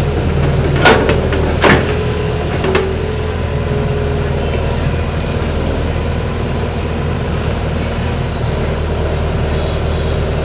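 Hitachi excavator's diesel engine running steadily, with two loud sharp knocks about a second and nearly two seconds in and a lighter one shortly after, each ringing briefly.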